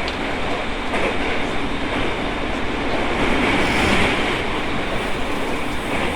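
Running noise of an E217 series electric commuter train heard from on board: a steady rumble of wheels on rail, with a few clicks from rail joints.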